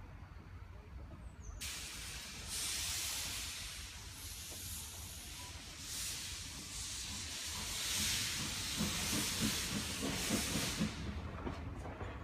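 Steam locomotive, the Isle of Man Railway's Beyer Peacock tank engine No.12 Hutchinson, blowing off steam. A loud hiss starts suddenly about two seconds in, swells in several surges, and fades away near the end.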